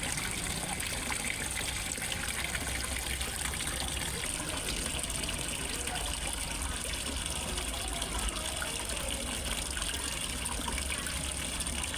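Small waterfall pouring steadily into a fish pond, an unbroken mix of gushing and trickling water.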